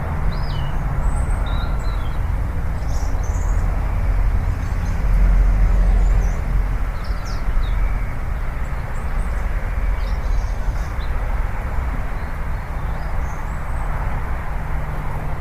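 Steady outdoor rushing noise with a heavy low rumble, like wind on the microphone or distant falling water. Birds chirp briefly and repeatedly over it.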